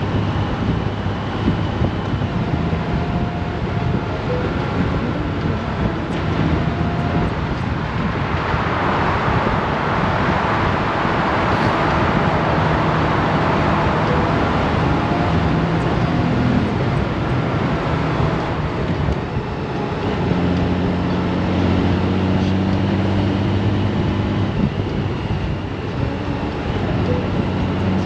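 Honda Gold Wing's flat-six engine running at a steady cruise under wind and road noise. A broad rushing noise swells in the middle and fades, and the engine's hum stands out more strongly in the last third.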